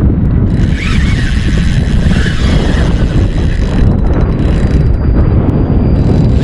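Strong wind buffeting the microphone, a loud, steady low rumble, with a higher hiss that comes and goes.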